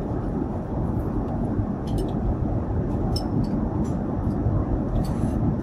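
Steady roar of airliner cabin noise in cruise aboard an Airbus A350-900, with a few faint light clicks.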